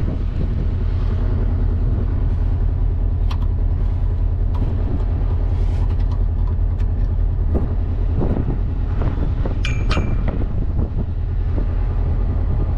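Prime mover's diesel engine idling steadily, with scattered clicks and clanks from handling in the engine bay during a coolant check, and a brief squeak about ten seconds in.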